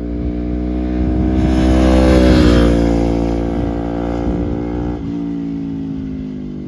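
Sport motorcycle with an Akrapovic exhaust passing by at a steady throttle. The note grows louder to a peak about two seconds in, drops slightly in pitch as it passes, then fades.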